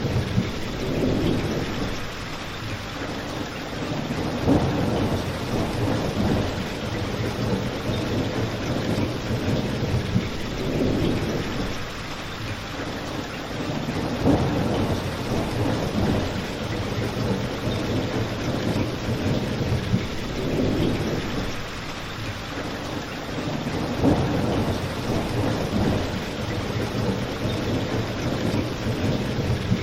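Steady rain falling, mixed with a crackling fire, with low rumbling swells every few seconds and a sharper pop roughly every ten seconds.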